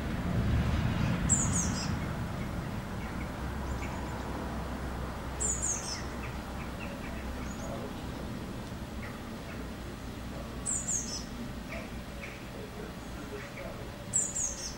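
Small birds calling: a high, quickly falling run of thin notes comes four times, about every four seconds, over scattered fainter chirps. A low rumble fades away over the first two seconds.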